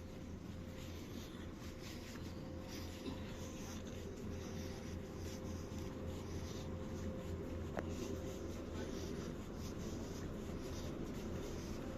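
Steady low background hum aboard a cruise ship with a faint constant tone, overlaid by light rustling and scattered small clicks from a handheld camera being carried.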